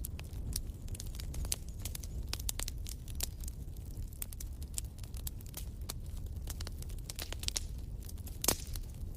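Wood fire crackling in a fireplace: many irregular sharp snaps and pops over a low steady rumble, with one louder pop near the end.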